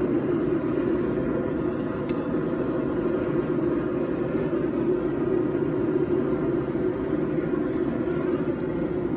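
A forge running with a steady, even rushing noise that holds at one level throughout, with no hammer blows.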